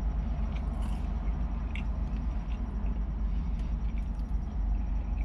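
A man chewing a mouthful of fried chicken sandwich, with small wet mouth clicks and a finger-licking smack, over a steady low rumble inside the car.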